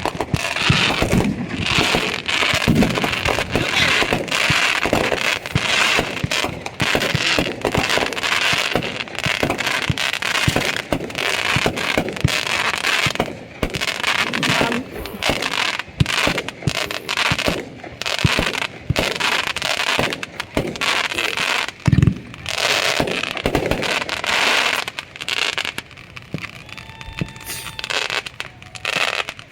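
Fireworks going off in a dense run of rapid bangs and crackles, with one louder bang about twenty-two seconds in, thinning out near the end.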